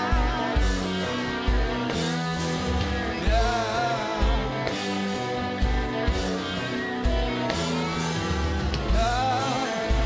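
Rock band playing live: guitars, bass and drums with a steady kick-drum beat, and a sung vocal line that comes in about three seconds in and again near the end.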